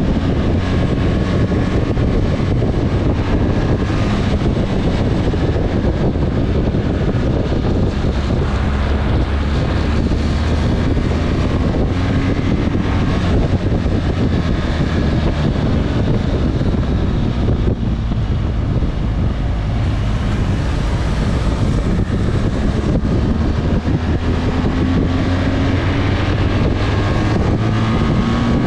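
Motorcycle engine running on the move, with wind rushing over the microphone; the engine note rises slowly a few times as it speeds up.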